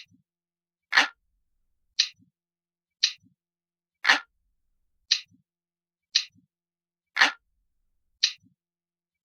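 Analog clock ticking loop, one sharp tick about every second. Every third tick is fuller and heavier, and each tick is followed by a faint low knock.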